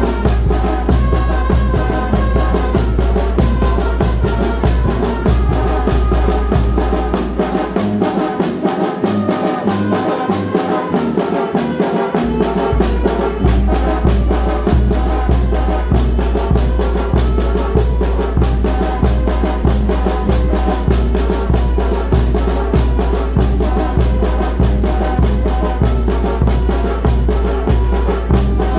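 Oaxacan banda (wind band) playing: brass instruments over a steady low beat of drum and bass. The low beat drops out for about five seconds roughly a quarter of the way in, then comes back.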